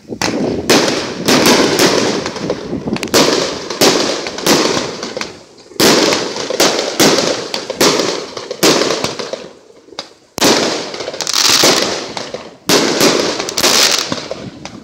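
Fireworks going off in rapid succession: a dense string of loud bangs and crackles, with short lulls about five and ten seconds in.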